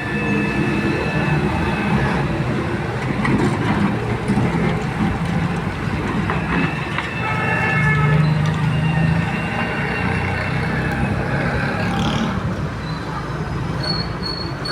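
Heavy excavator working, its diesel engine running loud and steady, with high-pitched metal squeals coming and going.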